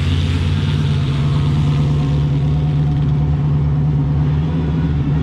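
Drag car's engine running steadily at low speed, a deep even note with no revving.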